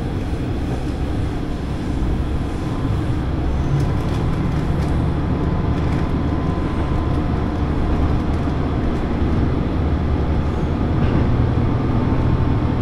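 Diesel railcar running along the line, heard from inside the car: a steady engine drone with wheel and rail noise, growing a little louder about two seconds in.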